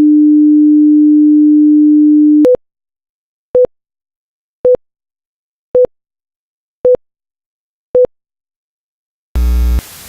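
Electronic countdown tones: a steady low tone for about two and a half seconds, then six short higher beeps about a second apart. Near the end a brief buzzy burst cuts in, followed by a rising hiss.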